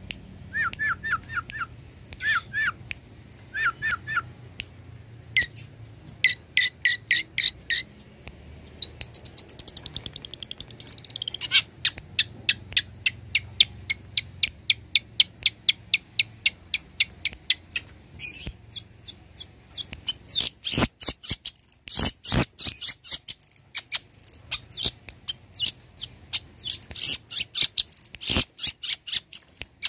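Long-tailed shrike (cendet) singing a varied, fast song. Short repeated whistled notes give way to quick runs of ticking notes and a descending trill about ten seconds in. Harsh, raspy notes fill the last third.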